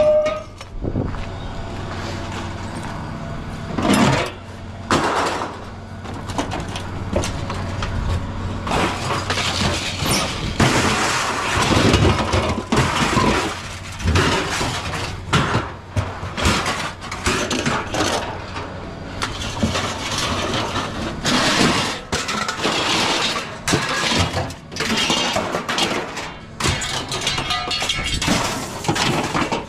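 Scrap metal clattering and crashing as pieces are thrown and tipped onto a pile, with many irregular impacts one after another.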